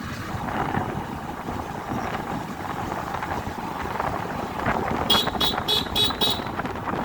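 Road traffic noise with a vehicle horn sounding five short toots in quick succession, about four a second, around five seconds in.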